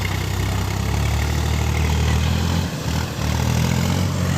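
Heavy diesel engine running steadily at a low, even pitch; its sound dips briefly a little over halfway through, then picks up again.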